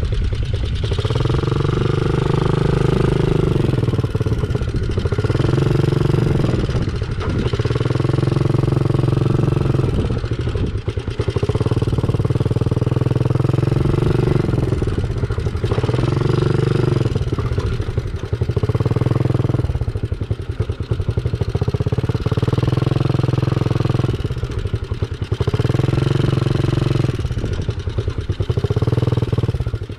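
Kid's dirt bike engine running hard along a dirt track, easing off and picking up again every few seconds.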